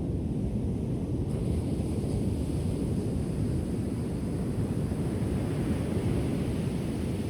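Ocean surf: a steady low rush of waves rolling onto the shore.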